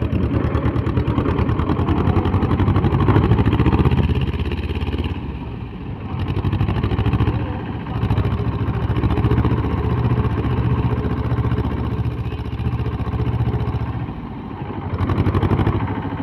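Tractor's diesel engine running close by, its pace rising and easing off several times as it is driven.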